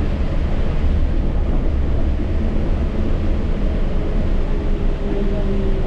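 Yurikamome rubber-tyred automated guideway train running, heard from the front of the car: a steady low rumble with a faint motor whine that becomes clearer about five seconds in.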